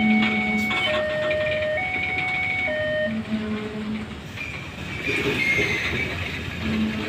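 Empty rail-carrier flat wagons of a freight train rolling slowly along the station track, with a run of held tones stepping from pitch to pitch about once a second over the first three seconds and a higher scraping hiss from about four seconds in.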